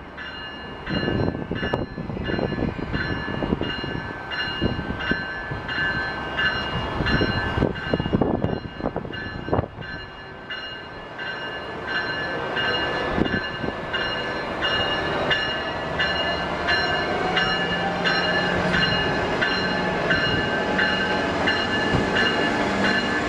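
Amtrak passenger train led by a Siemens SC44 Charger diesel locomotive on the move, its bell ringing over and over in a steady rhythm. Partway through, the engine's note rises slowly.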